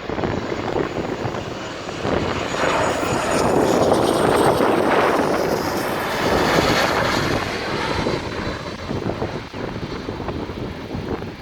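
Jet airplane flying past low on its landing approach: the engine roar swells to a peak about four seconds in, with a faint high whine, then slowly fades.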